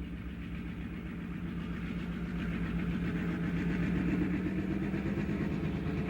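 Diesel locomotive engine running steadily on a switch move, its low note growing gradually louder.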